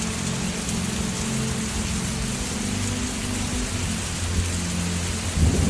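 Steady, heavy rain hissing, with a low rumble of thunder swelling up near the end.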